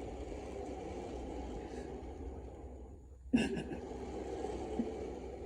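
A toy truck's wheels rolling along the floor in a steady rumble. It stops for a moment about three seconds in, then starts again with a sudden knock.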